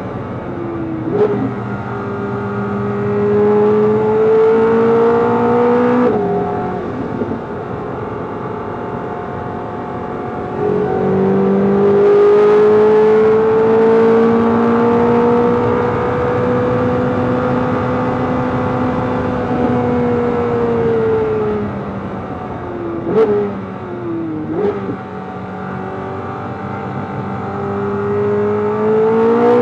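C8 Corvette Z06's 5.5-litre flat-plane-crank V8 at full throttle, its pitch climbing through a long pull in 4th gear with a brief dip partway. It then falls away under braking, gives two quick rev blips as the gearbox downshifts to 2nd, and rises again as the car accelerates out of the corner.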